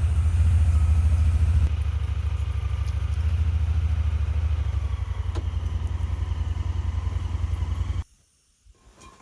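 A motor running steadily with a low, fast pulse, then shutting off abruptly about eight seconds in.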